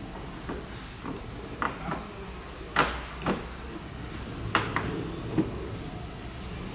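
A series of short knocks and clicks, about nine in all and the loudest about three seconds in, over a low steady hum.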